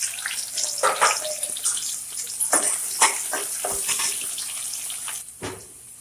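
Chopped onions sizzling in hot oil in a pan, with a few knocks and scrapes of a spoon against the pan as they are stirred. The sizzle dies down near the end.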